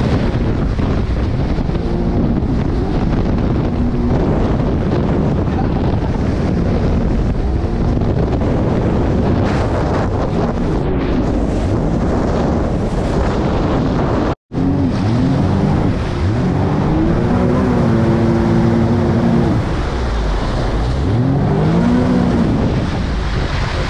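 Jet ski engine running under way, with heavy wind buffeting the microphone and rushing water. After a brief dropout about halfway through, the engine pitch rises and falls several times as the throttle is opened and eased.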